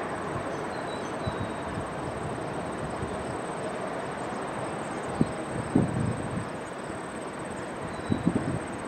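GO Transit commuter train approaching, a steady rumbling noise, with a thin steady insect whine and a few faint bird chirps above it. A few low thumps come about five, six and eight seconds in.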